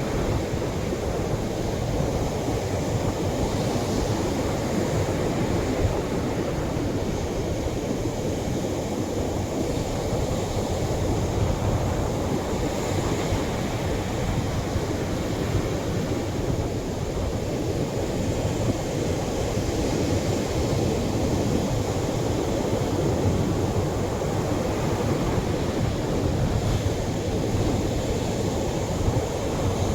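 Atlantic surf breaking on a beach: a continuous deep rush of waves, with a hissing wash that swells every several seconds as each wave breaks and runs up the shore.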